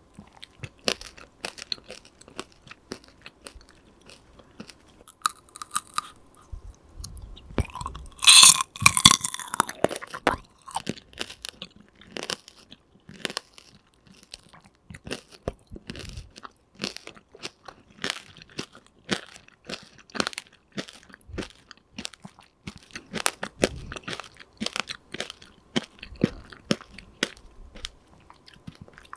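Close-miked chewing of tanghulu: the hard candied sugar shell cracking and crunching between the teeth with the wet fruit inside, in many small crunches, with one loud, crackling bite about eight seconds in.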